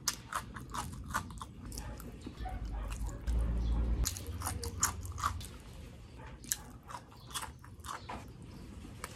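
Close-miked mouth sounds of someone biting into and chewing okra pods: a string of short, crisp crunches and wet chewing, with a low rumble about three seconds in.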